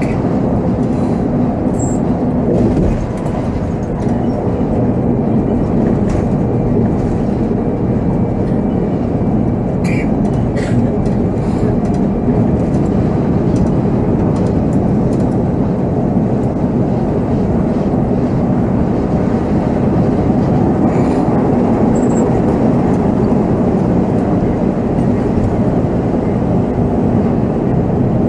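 Volvo B7R coach on the move: steady diesel engine and road rumble, with short rattles and clicks now and then from the body and fittings.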